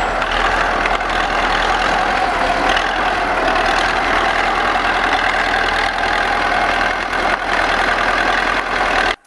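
An engine running steadily with a low hum. It cuts off abruptly just before the end.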